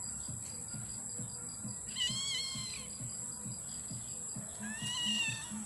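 A cat meowing twice in high-pitched calls, the first about two seconds in and the second near the end.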